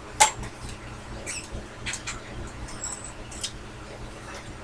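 Workpiece being handled and set between the centers of a small bench lathe, with the lathe not running. There is a sharp metal click about a quarter second in, then scattered faint clicks and short high squeaks.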